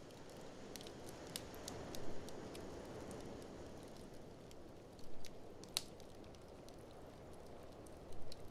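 Wood fire crackling with irregular sharp pops, a few of them louder, over a steady low rush of blizzard wind.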